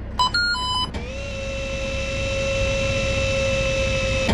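Electronic toy sound effects: a few quick beeps in the first second, then one long steady electronic tone that rises a little as it starts and is held for about three seconds.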